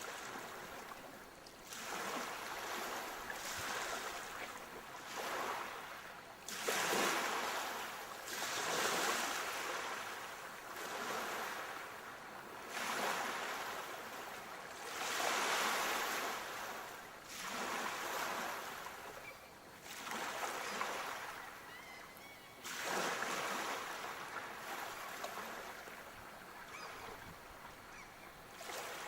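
Sea waves breaking and washing up the shore, the surf swelling and falling back every couple of seconds, with the louder breakers coming in sets.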